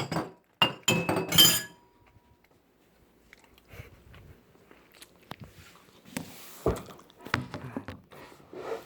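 Tableware clinking and knocking on a table: several sharp clinks in the first second and a half, one leaving a brief ringing tone, then quieter scattered clicks and another sharp knock near the end.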